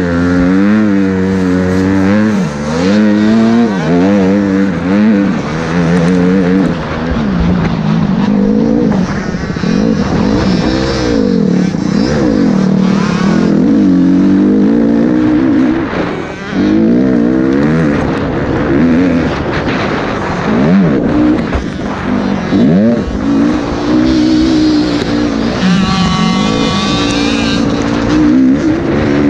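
Motocross bike engines revving hard and backing off over and over as they ride the track, the pitch rising and falling with each throttle change. A higher-pitched engine joins near the end.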